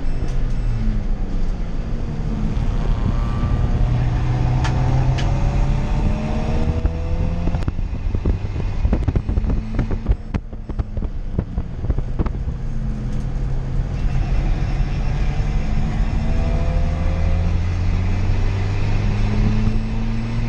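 Toyota Yaris D-4D race car's turbodiesel engine heard from inside the stripped cabin, revving up through the gears in rising runs of pitch. About halfway it eases off amid a run of knocks and rattles, then pulls up through the revs again.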